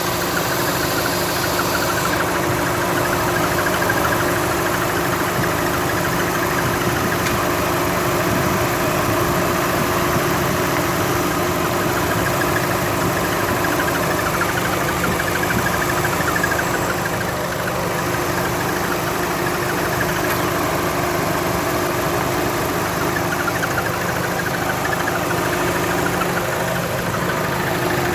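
Chevrolet Cruze engine idling with the air conditioning on, and a fast, steady squeaking from the engine bay. It is a sign of a dry front crankshaft oil seal: the squeak stops when the dipstick or oil filler cap is taken out, and the owner cured it by replacing the seal.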